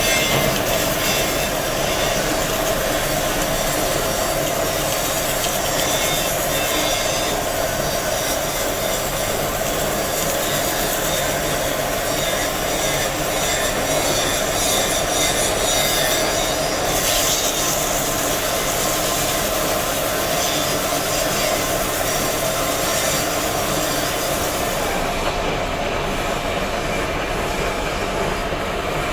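Steady, continuous grinding of stone by a power tool, a harsh screech with a strong midrange whine, unbroken throughout.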